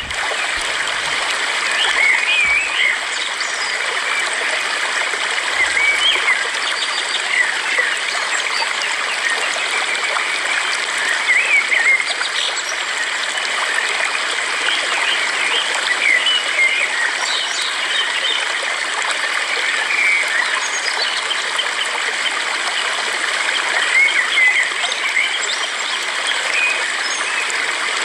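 Steadily running stream water, with small birds chirping on and off over it.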